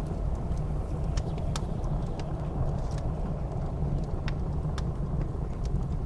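Wood fire crackling, with scattered sharp pops at irregular intervals, over a steady low roar of blizzard wind.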